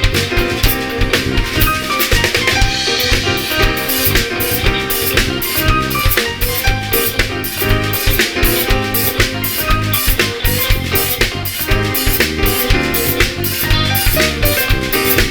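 A band playing an instrumental passage, with a drum kit keeping a steady beat of snare, bass drum and rimshot under sustained pitched instruments.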